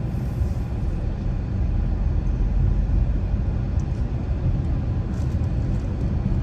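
Car driving on a residential road: a steady low rumble of tyres and engine.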